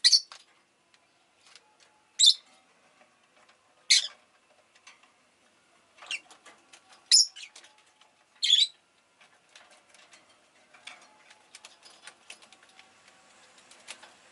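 Rosy-faced lovebird giving short, shrill chirps, about five sharp calls a second or two apart, falling away after the first two-thirds to scattered faint ticks.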